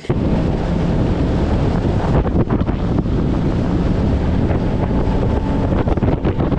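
Loud wind buffeting the microphone, a dense low rumble and hiss that starts abruptly and cuts off just as abruptly.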